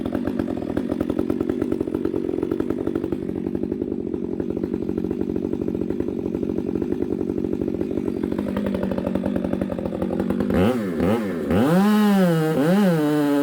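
Chainsaw running steadily under load as it cuts through oak wood. About ten seconds in, it swings up and down in speed several times as the throttle is worked.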